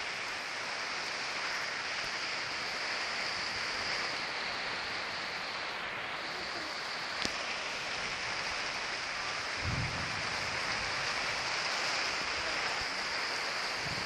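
Steady rain falling during a thunderstorm, an even hiss throughout. A single sharp click about seven seconds in and a brief low rumble a little before ten seconds in.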